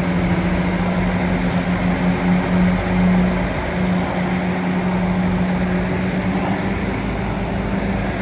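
Bulldozer's diesel engine running at a steady speed, a constant low-pitched note, slightly louder two to three seconds in.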